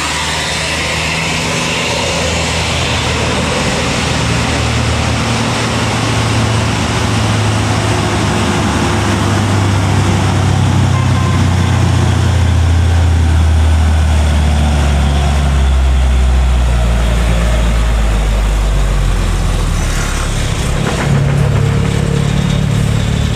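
Heavy truck's diesel engine labouring under load on a steep uphill climb. It grows louder, then its deep pitch sinks slowly over several seconds as the revs drop, and the note changes again near the end.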